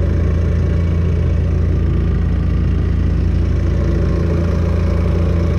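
Hangkai 4 hp four-stroke outboard motor running steadily during its break-in.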